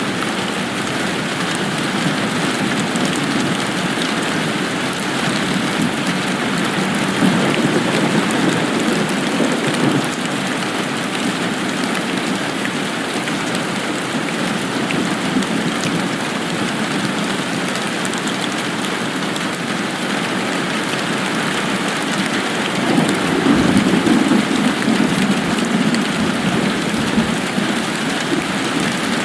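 Steady rain falling, a dense even hiss. A low rumble swells up twice: briefly about seven seconds in, and more strongly from about twenty-three seconds.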